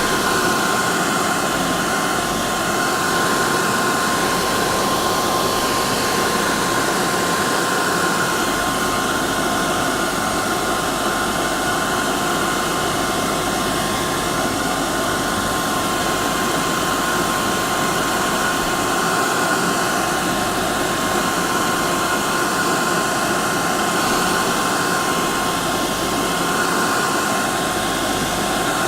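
Hair dryer running steadily: an even rush of air with a steady high motor whine that does not change.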